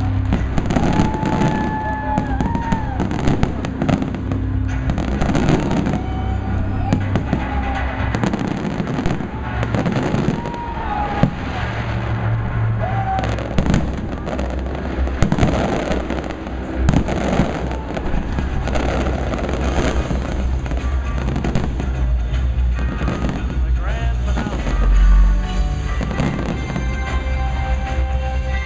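Fireworks display: repeated bursts and crackling shells going off in quick succession throughout, over music with a sung melody playing along.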